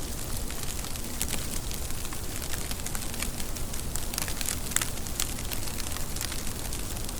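Steady rain with many distinct drops spattering sharply on a surface.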